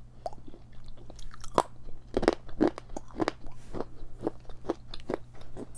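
Close-miked chewing of a piece of dry edible clay: a string of irregular crisp crunches, about two to three a second.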